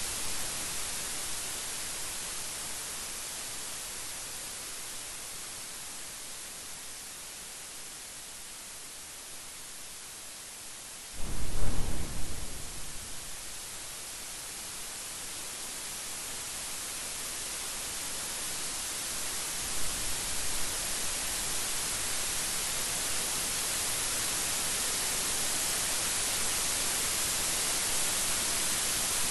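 Steady rain hissing, growing louder toward the end. About a third of the way through, a sudden loud thunderclap breaks in and rumbles away over a couple of seconds, and a fainter rumble of thunder follows later.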